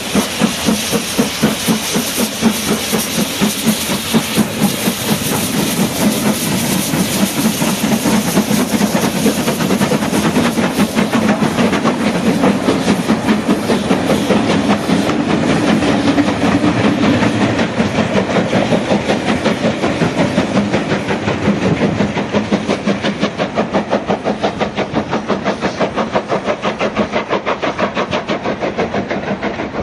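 Two LMS Black 5 two-cylinder steam locomotives running through with steam hiss and a rapid, even rhythmic beat. The hiss is strongest in the first part and fades, while the beat quickens later on.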